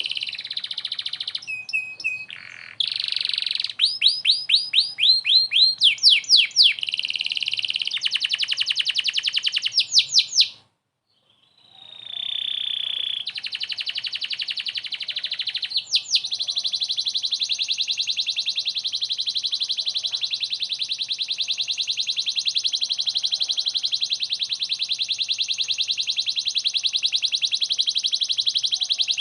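Domestic canary singing vigorously: strings of fast sweeping notes and rolling trills, a break of about a second about a third of the way in, then one long, very rapid, even trill for the rest.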